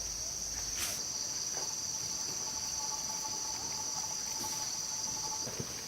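Insects chirring in a steady high-pitched chorus, with a single click about a second in.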